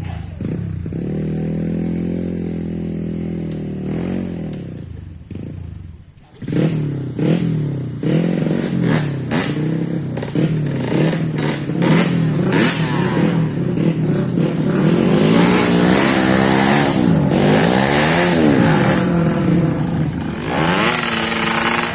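Off-road trail motorcycle engine running, with a brief drop about six seconds in. After that it revs up and down again and again and gets louder, with clattering knocks throughout.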